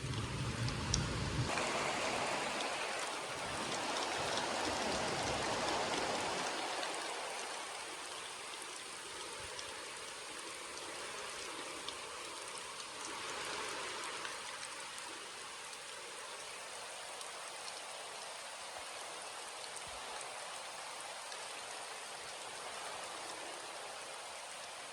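Steady rainfall pattering on surfaces. It is heavier for the first several seconds, with a brief low rumble at the start, then eases to an even, lighter patter.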